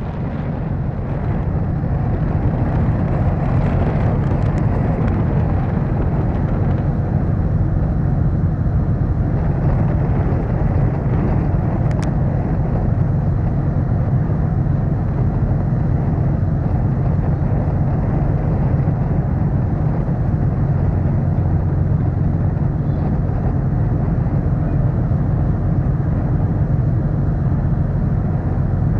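Steady low rumble of a ferry underway, its engine noise mixed with rushing wind and water. It fades in over the first couple of seconds, then holds even.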